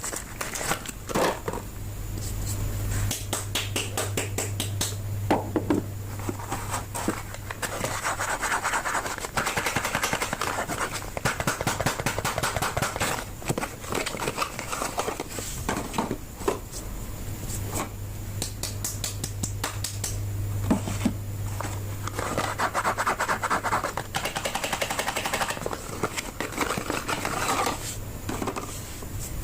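Hands unwrapping and handling bars of soap: wrappers and packaging scratching, rubbing and crinkling, with many sharp taps and clicks. A low steady hum runs underneath for stretches.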